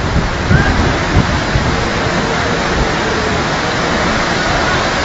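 Heavy rain pouring down with rushing water, a loud steady hiss. Low rumbling bumps come and go in the first few seconds.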